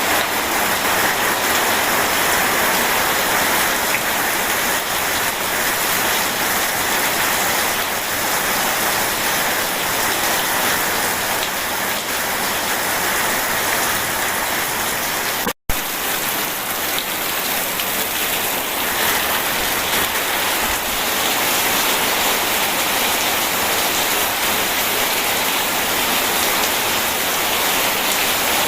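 Steady heavy rain, a dense, even hiss without letup. About halfway through it cuts out for an instant, with a click as it returns.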